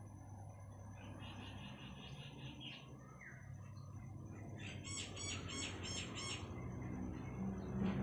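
Small songbird calling: two runs of quickly repeated high chirps, about four a second, the second run louder, over a steady low hum.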